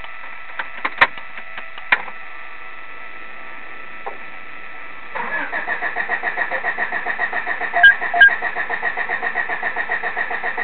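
A few clicks, then about halfway through the starter motor begins cranking a cold Honda Civic's four-cylinder engine with an even pulsing about four or five times a second. It keeps cranking without catching: a hard cold start. Two sharp clicks come during the cranking.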